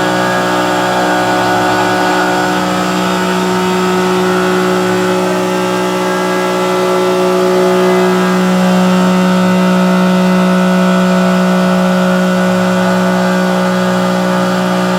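CNC milling machine's spindle running steadily while the cutter machines 7075-T6 aluminium, a hard alloy that cuts almost like mild steel. It is a steady machine hum made of several fixed tones, growing a little louder about eight seconds in.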